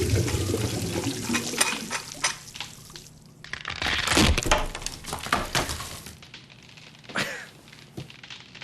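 Water gushing and splashing among clattering knocks and breaking sounds, with a louder crash about four seconds in.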